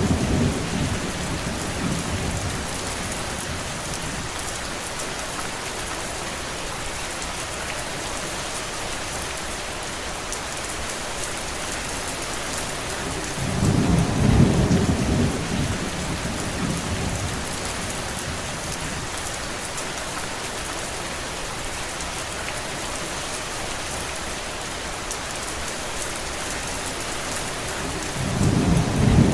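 Steady rain falling on a surface, an even hiss. A low rumble swells for a couple of seconds at the start, again about halfway through, and once more near the end.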